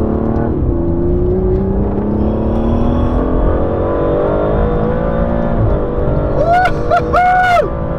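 Aston Martin DBS Superleggera's twin-turbo V12 under hard acceleration, heard from inside the cabin. The engine note climbs steadily and drops at an upshift about half a second in and again near six seconds.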